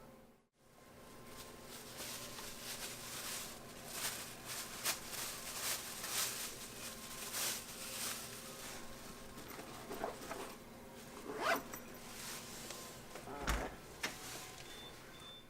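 Quiet, irregular rustling and scraping noises, with a few sharper, louder scrapes in the second half.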